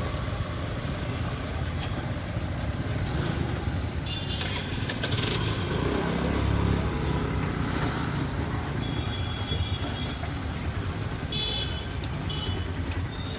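Road traffic: vehicle engines running in a steady low rumble that swells about halfway through, with a few short high-pitched beeps.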